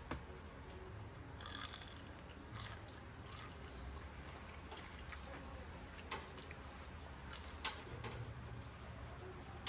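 Faint eating sounds: soft, wet mouth and food noises broken by a few sharp clicks, with a short rustling burst about a second and a half in.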